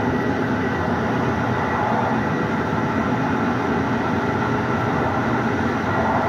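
Steady running noise of a moving passenger train, its wheels rolling on the rails, heard from inside the rear carriage.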